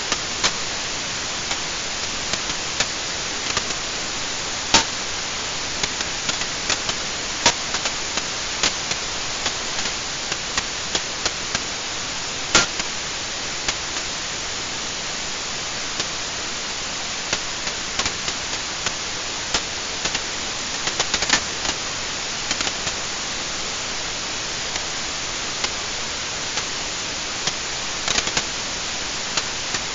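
Wood fire burning in a fireplace: a steady hiss with irregular crackles and sharp pops, one pop louder than the rest about midway through.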